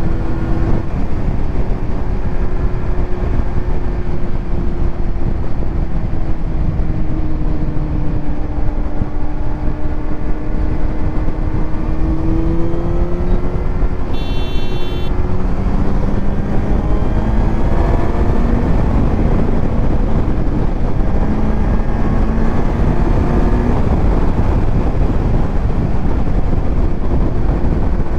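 Kawasaki Z900's inline-four engine running through a titanium Arrow exhaust at a steady cruise, its pitch drifting slowly up and down with the throttle, under heavy wind rush on the helmet-mounted microphone. A brief high-pitched tone sounds about halfway through.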